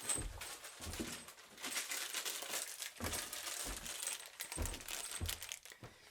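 Wooden bed parts being handled during assembly: a busy run of small clicks, rattles and rustling, with several dull knocks through it.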